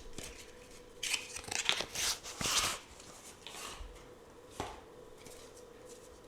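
Tarot cards being handled close to the microphone: a run of crisp rustling and tapping in the first three seconds, then quieter handling and a single sharp tap about four and a half seconds in.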